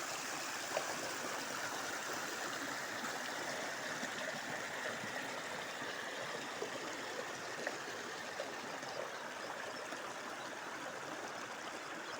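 Spring water flowing and splashing in a small stream, a steady rushing babble.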